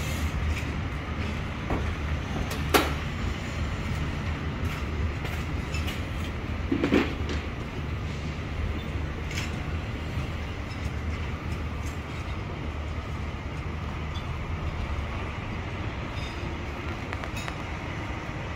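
Passenger train coaches rolling slowly past: a steady low rumble, with a sharp clank about three seconds in and a brief clatter about seven seconds in.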